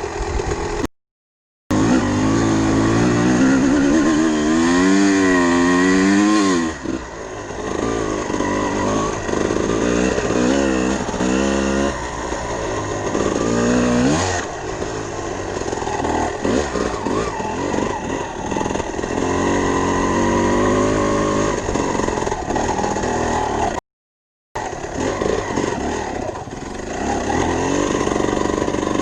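Dirt bike engine revving up and down repeatedly as the bike is ridden, its pitch swinging quickly. The sound drops out completely twice, for under a second each time.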